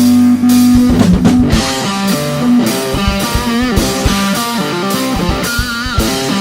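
Rock band playing an instrumental passage: guitar over a drum kit, with a bent, wavering guitar note near the end.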